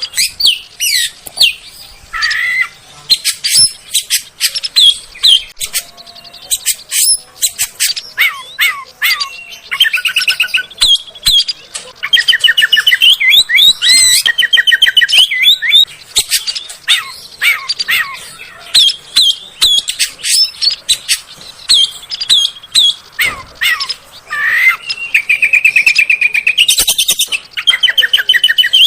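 Oriental magpie-robin singing a loud, varied song: whistled phrases, fast repeated trills and sharp harsh clicking notes, with the densest, loudest trilling runs near the middle and again near the end.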